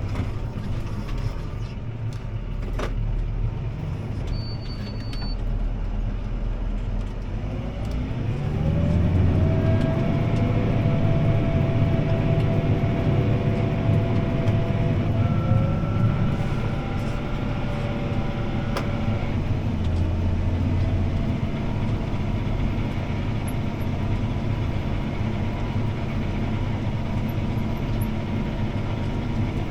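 CLAAS ARION 650 tractor's six-cylinder diesel engine running under load, heard from inside the cab. About a quarter of the way in the revs climb and it gets louder. It eases back a little a few seconds past the halfway point.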